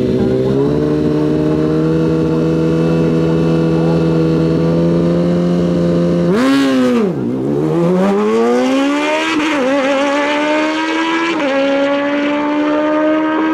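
Stock sport-bike drag racing motorcycles held at steady high revs on the start line, then launching about halfway through. The pitch dips sharply and climbs as they accelerate, with upshifts heard as brief drops in pitch near the end.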